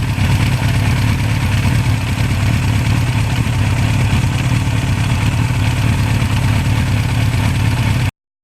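Motorcycle engine running at a steady idle, without revving, cutting off abruptly near the end.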